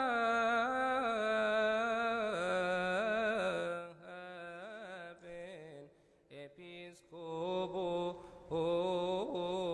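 A solo male voice chants Coptic liturgical chant, drawing one syllable out over many ornamented, wavering notes. The voice drops back for a few seconds past the middle and then swells again on sustained notes.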